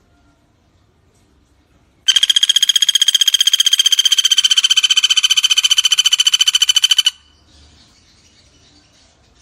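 Pelatuk bawang (velvet-fronted nuthatch) giving one loud, rapid trill of about a dozen notes a second. It starts about two seconds in and lasts about five seconds.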